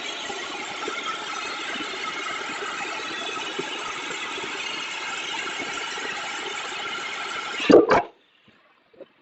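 CNC pipe beveling machine cutting steel pipe with its cutting torch: a steady hissing noise that ends in a short loud burst just under eight seconds in and then cuts off suddenly as the cut is finished.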